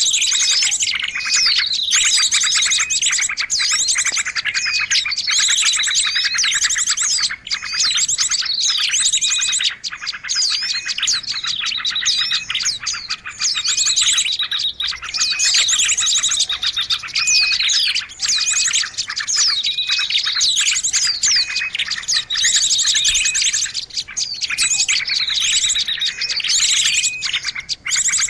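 Dense, continuous chattering of many small birds, the kind of noisy recording played to lure small birds in. Rapid high trills run under a falling chirp that repeats about every two seconds.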